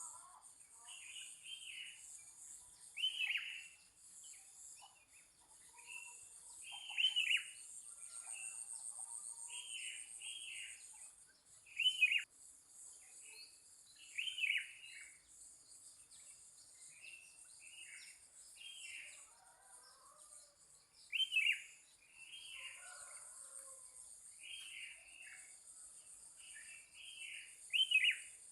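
Songbirds calling back and forth outdoors: a string of short, sharp falling chirps repeated every second or two, with fainter lower calls in between, over a steady high-pitched insect drone.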